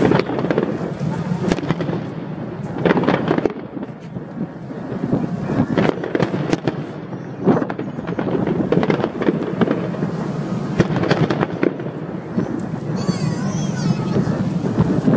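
Aerial fireworks bursting in a rapid, irregular string of bangs and crackles, with a wavering high whistle near the end.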